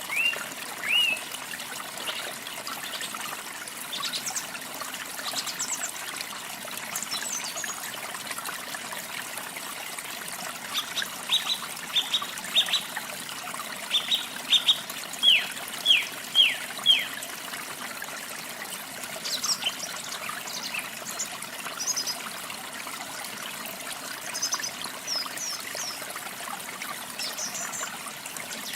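Songbirds calling over a steady trickling stream. Halfway through, a bird gives a run of quick falling notes, the loudest sounds here. Near the end come thinner, higher chips.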